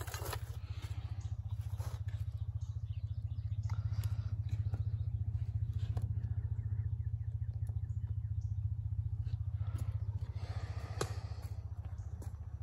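1950 DeSoto's flathead six-cylinder engine idling steadily, with faint rustles and a sharp click near the end.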